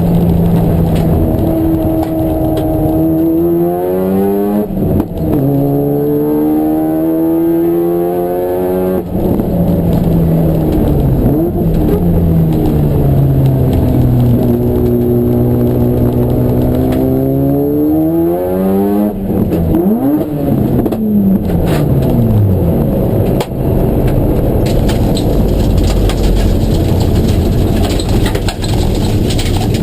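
Race car engine under hard acceleration, its pitch climbing and then dropping sharply at each upshift about 5 and 9 seconds in. Later it slows and picks up again, falls through several quick downshifts around 20 seconds, then runs at a fairly steady speed.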